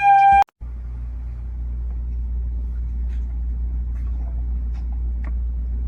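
A dog's howl, held on one pitch, cuts off about half a second in; then a steady low rumble with a few faint clicks.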